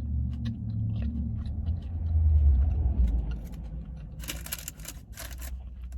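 Low motor-vehicle rumble heard from inside a car, swelling about two seconds in and easing off, with a few short crackly bursts near the end.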